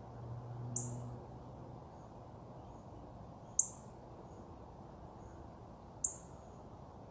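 A bird giving three sharp, high chip calls, each one short and spaced about two and a half seconds apart, over a faint steady outdoor background. A low hum sounds under the first call and fades out after about a second.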